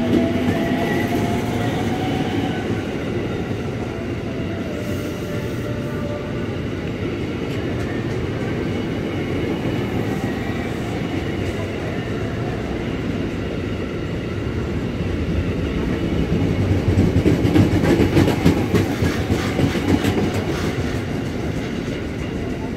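A KRL Commuter Line electric train runs past close by: a steady rumble of steel wheels on rail. A thin whine sounds in the first few seconds. About two-thirds of the way through, the rumble grows louder with quick clicks of wheels over rail joints, then eases near the end.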